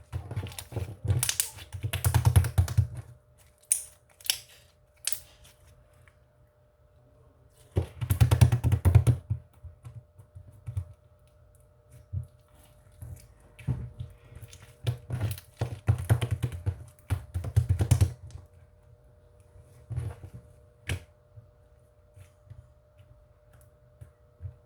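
Irregular bursts of rapid clicking and tapping, like typing on a keyboard, with short pauses between bursts.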